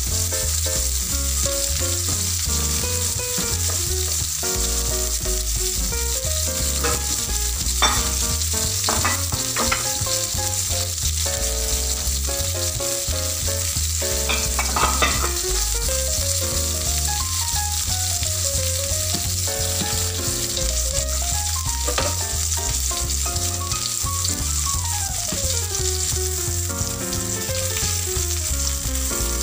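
Tanigue fish steaks sizzling steadily as they fry in a nonstick grill pan, with a few sharp clicks as silicone tongs touch the pan while the pieces are turned.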